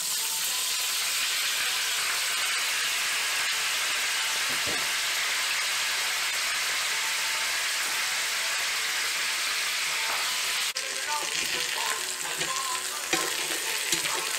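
Parboiled potato chunks and bacon-wrapped chicken ballotines frying in hot fat in a cast-iron skillet, a steady sizzle with a momentary dropout about eleven seconds in.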